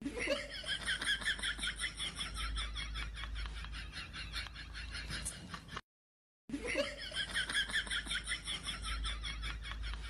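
Laughter sound effect: rapid, pulsing giggling that breaks off into silence about six seconds in and then plays again.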